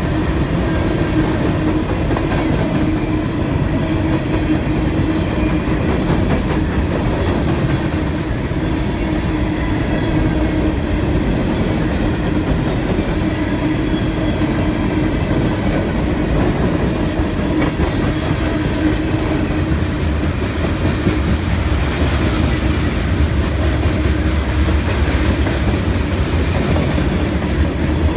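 Long freight train's cars rolling past, steel wheels clacking steadily over the rail joints with a continuous rumble.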